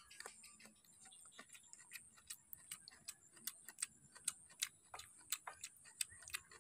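Faint, crisp clicking crunches of someone chewing crunchy stir-fried cauliflower, irregular and several a second, over a faint steady high-pitched hum.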